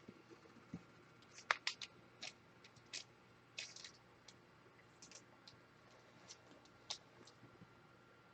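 Faint handling of trading cards: scattered short clicks and brief scrapes of cards and plastic holders, most bunched about one and a half seconds in.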